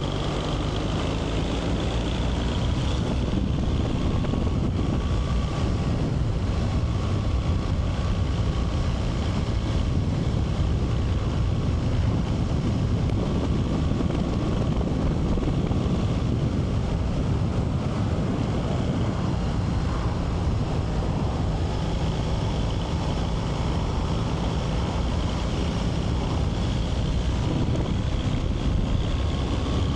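Motorcycle engine running at a steady pace under heavy wind noise on the microphone while riding.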